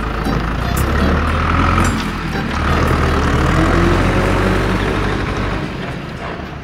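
A heavy truck's engine running with a steady low rumble, its pitch rising slightly about halfway through, then easing off near the end.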